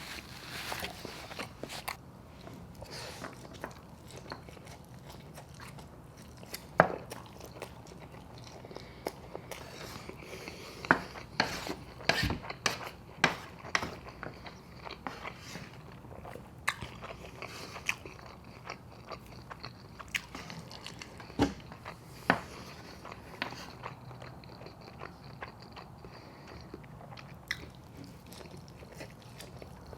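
Eating sounds from a mukbang of Chapagetti noodles and gyoza dumplings: chewing with many sharp, irregular mouth smacks and clicks. The loudest smack comes about seven seconds in, with a cluster between about eleven and thirteen seconds and two more a little past twenty seconds.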